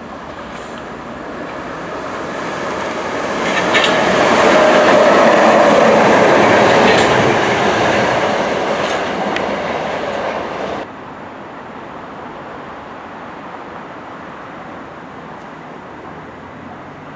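Class 455 electric multiple unit passing at speed, its running noise swelling to a peak and fading again, with wheels clicking over rail joints. It cuts off abruptly about two-thirds in, leaving a quieter steady rumble of another train drawing into the platform.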